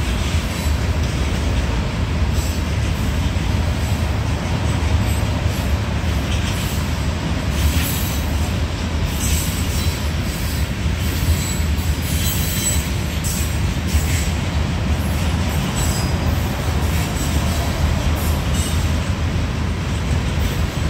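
Kansas City Southern grain train's covered hopper cars rolling past: a loud, steady low rumble with short high-pitched wheel screeches that recur every second or two.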